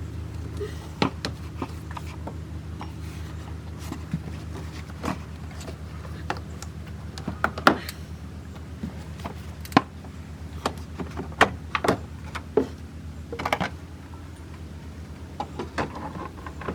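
Irregular clicks and knocks of hand tools and plastic parts being handled while a canister purge valve and its cover are removed from a car's engine bay, over a steady low hum.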